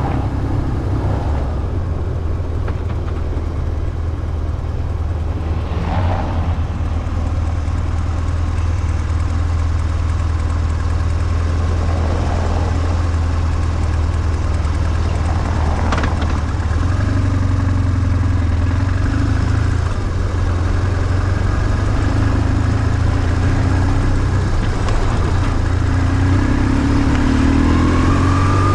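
BMW R1150GS air-cooled boxer twin engine running steadily while riding, its pitch rising near the end as it accelerates.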